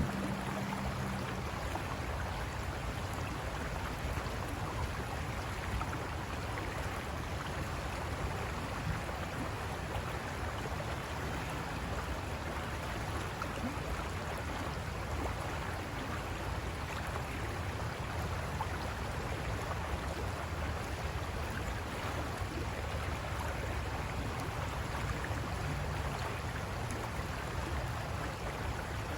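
River water rushing and splashing over rocks, a steady, even noise. A low hum fades out in the first second or so.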